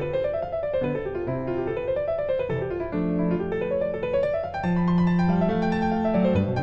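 Background piano music: flowing arpeggios rising and falling over held bass notes.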